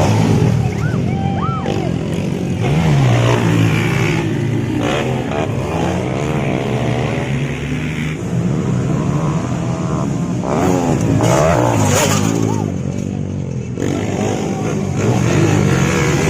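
Several motocross bikes revving hard as they race, their engine pitch repeatedly climbing and dropping as the riders open the throttle and shift, with engines overlapping one another.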